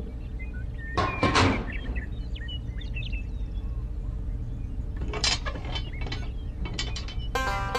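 A few short mechanical clattering knocks over a steady low hum, loudest about a second in, with a few more clicks later on; plucked-string music begins near the end.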